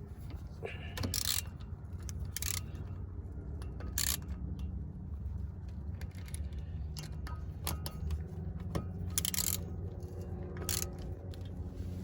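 Scattered short metallic clicks and clinks, about five of them, from a tool working the Phillips screws that hold a brake rotor to its hub, over a steady low hum.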